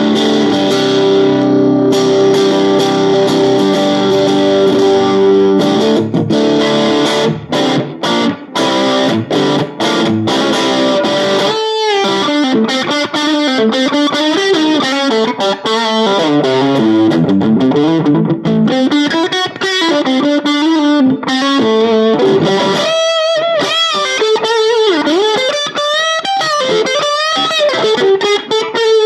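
AIERSI ST11 Custom HSS electric guitar played through effects: a held, ringing chord, then short stabbed chords with brief gaps, then from about twelve seconds in a single-note lead melody with string bends and vibrato.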